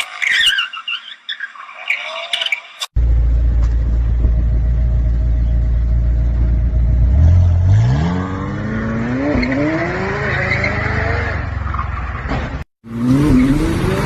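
Sports car engine accelerating hard, its pitch climbing steeply over a couple of seconds and then wavering, above a heavy low rumble. A short high squeal comes before it, and the sound breaks off abruptly twice at cuts between clips.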